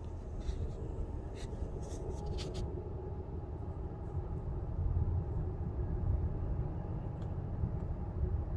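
Low rumble of an approaching diesel freight train, still distant, slowly growing louder, with a few faint clicks in the first three seconds.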